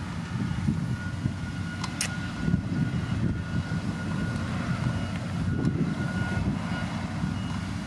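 A motor grader's diesel engine running steadily under load, with a faint steady whine above the engine note and a brief click about two seconds in.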